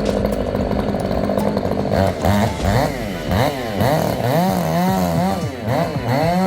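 Chainsaw engine running at high speed, then revved up and down over and over, its pitch rising and falling about twice a second.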